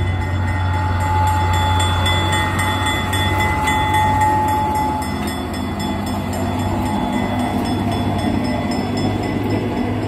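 Small diesel locomotive passing close by with a steady engine drone, then its string of open passenger cars rolling past on the rails.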